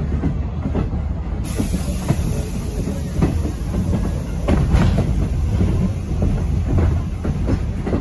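Railway passenger coach rolling along the track, heard from inside the car: a steady low rumble with irregular clicking and clattering from the wheels.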